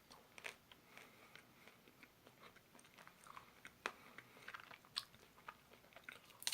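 Faint eating sounds of a chocolate ice cream cone (Gugu Cone) being bitten and chewed: scattered soft crunches and wet mouth clicks at irregular intervals.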